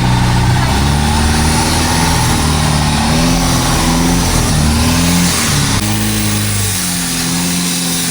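Longtail boat's engine running under way, loud, its speed wavering up and down several times, with a steady rushing noise underneath.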